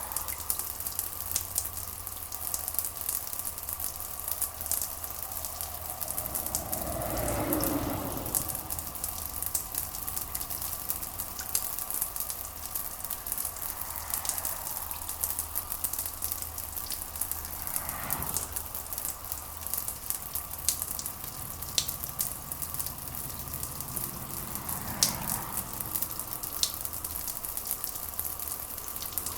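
Steady rain ambience: a dense hiss of rain with fine crackling drops over a low hum, with three brief, softer swelling sounds in the middle of the mix.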